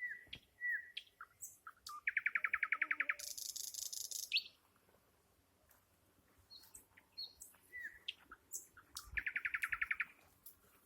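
Nightingale singing: short whistles and clicks, then a fast rattling trill of evenly repeated notes that runs into a high buzzy phrase. After a pause of about two seconds come more scattered notes and a second rapid trill near the end.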